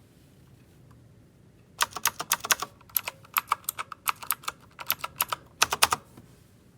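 Typing on an RK Royal Kludge S108 mechanical keyboard with clicky blue switches: a quick run of keystrokes starting about two seconds in, with short gaps, ending in a final flurry about a second before the end.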